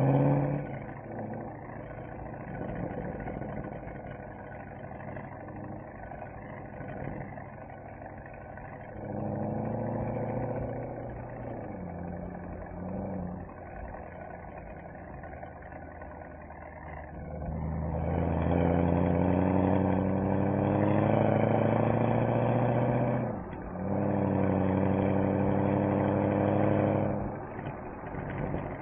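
Mercedes-AMG SL63's V8 engine and exhaust: light cruising with a short burst of throttle about a third of the way in, then a loud, hard pull with rising pitch past the halfway mark. A brief break marks an upshift before the second gear pulls, and it lifts off near the end.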